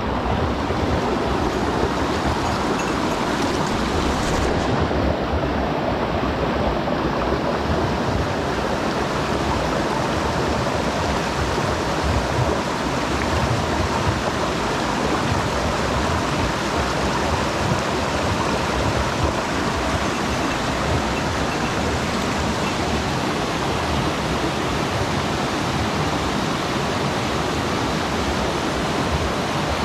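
Steady rushing of a mountain stream's water, an even wash of noise that does not let up.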